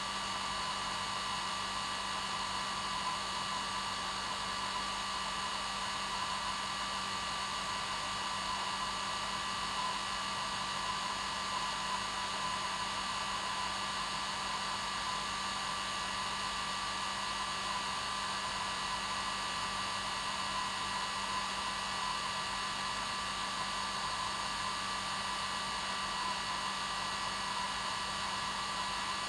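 Hair dryer running steadily on its normal setting: an even rushing of air with a steady motor whine.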